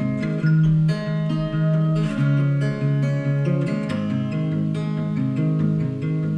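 Background music: acoustic guitar strumming and picking a steady run of chords.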